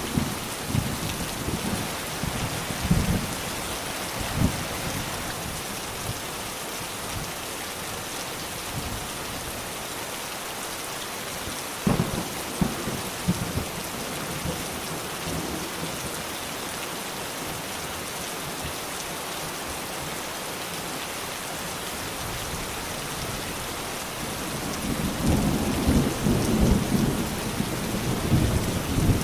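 Steady rain falling, with low thunder rumbling at times; the longest and loudest rumble comes near the end.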